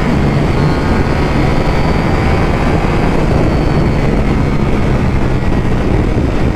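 Ducati V4 motorcycle engine running steadily under way, its hum holding at one pitch under a dense, even rumble of noise.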